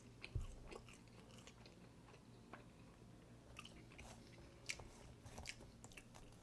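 Faint close-up chewing of food, with scattered soft wet mouth clicks and a low bump about a third of a second in.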